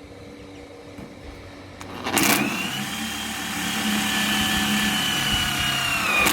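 Power drill boring a hole into the metal beam. It starts about two seconds in and runs steadily under load with a high whine, which sags slightly in pitch near the end.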